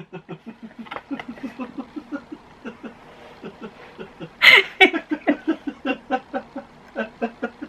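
A woman laughing in a long run of short, rhythmic bursts, louder for a moment about four and a half seconds in.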